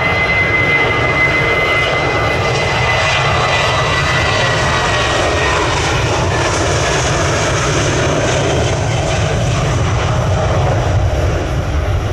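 Airliner jet engines running loud and steady as a plane passes close by, with a high whine that drops slightly in pitch over the first few seconds.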